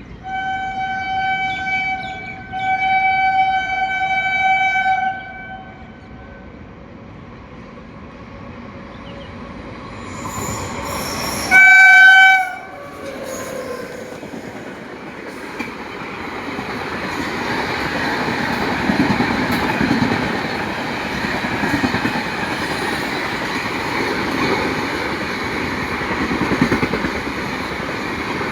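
Indian Railways train sounding its horn in two long blasts, then one short, very loud blast about twelve seconds in, followed by the steady rumble and clatter of the train running past.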